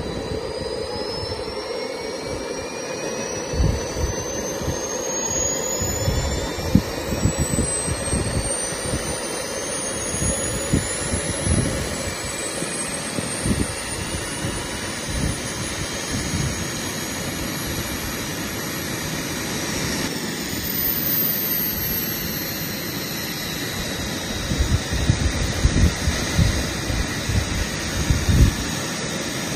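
Twin Kingtech K45TPG4+ model turboprop engines running, a turbine whine climbing in pitch over the first ten seconds or so and dipping briefly about twenty seconds in, over a steady rushing roar with an uneven, gusty low rumble.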